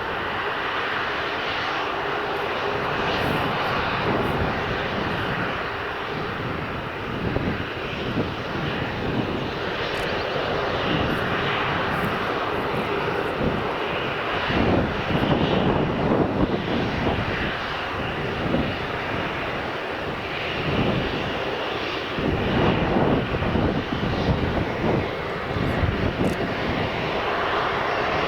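Tupolev Tu-154M jet airliner with its three Soloviev D-30KU-154 turbofans running, a loud steady jet rush with a faint steady tone under it. Wind buffets the microphone in irregular low rumbling gusts, strongest around the middle and in the last third.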